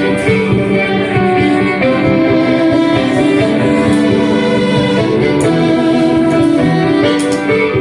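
Live instrumental music: string instruments, with guitar prominent, play a steady, sustained passage without vocals.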